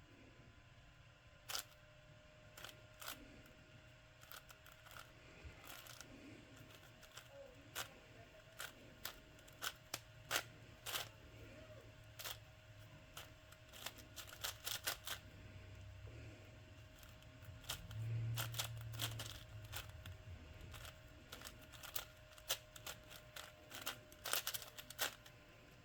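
Plastic twisty puzzle cube being turned by hand: irregular clicks and clacks of the layers snapping round, some in quick flurries of turns. A faint steady hum runs underneath.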